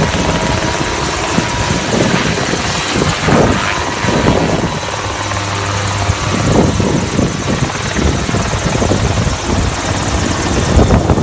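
Helicopter rotor and engine noise, loud and steady with uneven swells.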